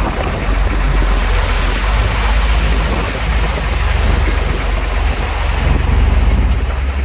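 Heavy diesel earthmoving machinery running steadily: a low engine drone under a broad rushing noise.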